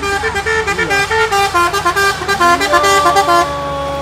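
Multi-tone musical vehicle horn, the kind called telolet, playing a quick run of stepping notes, then a long held horn note that slides up into place about two and a half seconds in, over a low engine hum.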